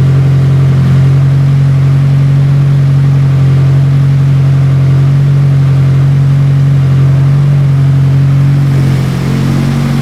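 A warmed-up car engine idling steadily, then dipping slightly near the end. It is an engine with an intermittent idle surge, but the idle holds even here.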